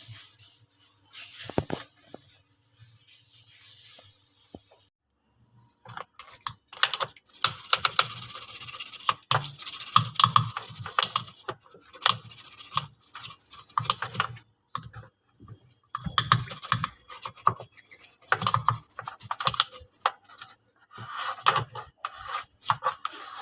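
Brush scrubbing in quick repeated strokes with short pauses, starting about five seconds in, typical of scrubbing dirt off a washing machine part.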